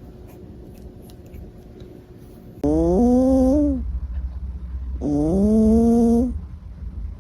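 An animal's voice: two drawn-out calls, each about a second long, that rise in pitch at the start and then hold. The first comes about two and a half seconds in and the second a second later.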